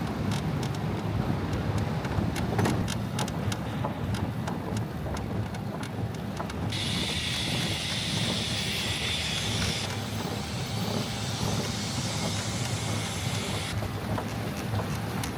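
Sky Bike rail bike rolling along its elevated track: a steady low rumble with scattered clicks from the wheels on the rail. There is a stretch of wind hiss on the microphone in the middle.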